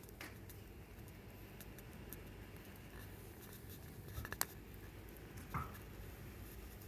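Small campfire of firewood offcuts crackling faintly, with scattered light ticks and two sharper pops, one a little past the middle and another about a second later.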